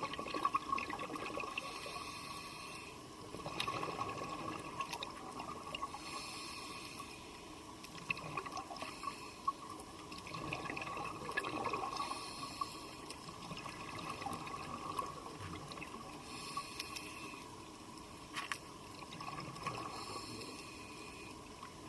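Underwater sound of a scuba diver breathing through a regulator: a hiss with bubbling comes back about every four to five seconds, over a steady water hiss and a faint steady hum.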